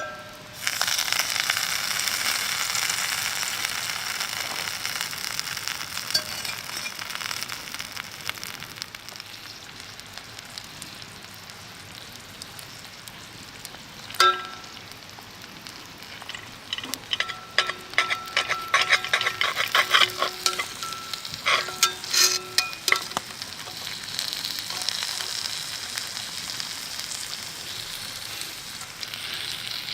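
Fillet steak sizzling in a hot skillet over a campfire: a loud sizzle starts about a second in and slowly fades. Around the middle come a sharp metallic clack, then a run of clinks and taps of metal on the skillet, and the sizzle swells again near the end.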